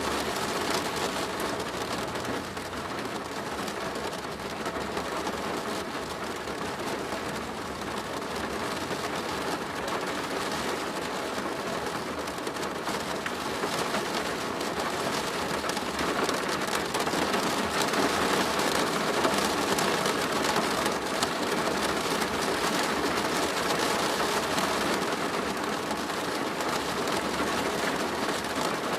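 Steady rain drumming on a plastic roof, a dense patter of drops that grows a little heavier about halfway through.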